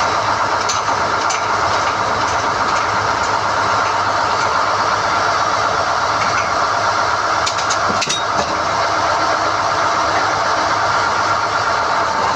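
SDH-1600 core drilling rig running steadily under load while NQ drill rods are hoisted, with a few short sharp clanks, about a second in and again about eight seconds in.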